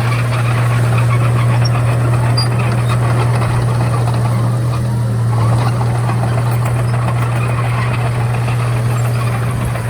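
Komatsu D31A crawler bulldozer's diesel engine running steadily and loudly, with a busy mechanical clatter over its low drone.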